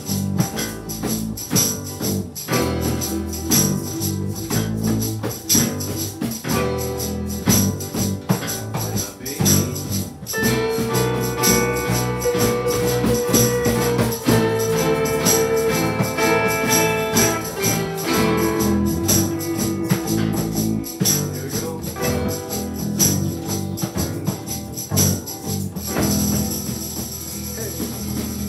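Small ensemble playing a four-chord song, with a bass line under it and a tambourine shaken steadily in time. A melody holds long notes through the middle.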